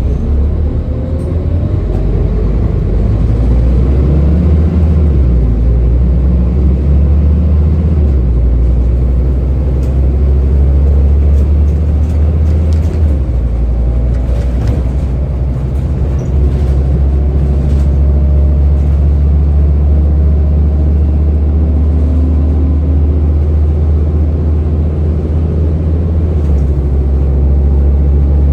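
Scania N230UD bus's five-cylinder diesel engine running under way through its ZF automatic gearbox, a loud low rumble whose pitch rises and drops several times.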